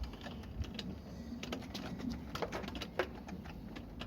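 Irregular light clicks and sharp knocks of hand tools on metal as a socket is worked onto a motorcycle engine bolt.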